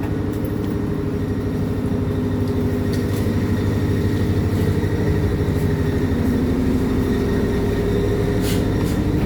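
A boat's engine running steadily at a constant speed, with an even low throb.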